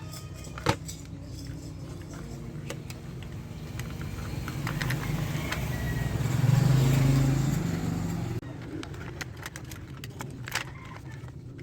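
A motor vehicle passing, its engine hum swelling to a peak and then cutting off suddenly, with a few sharp clicks.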